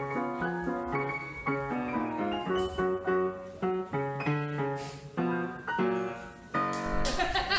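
Piano playing a melody of separate, stepping notes. About seven seconds in it gives way abruptly to a louder, noisier sound with a low rumble.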